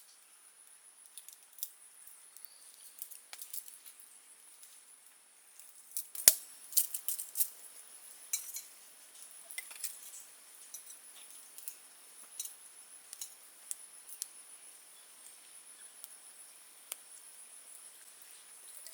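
Irregular light clicks and clinks of small hard objects, a cluster of sharper ones about six to eight seconds in, over a steady high-pitched insect drone.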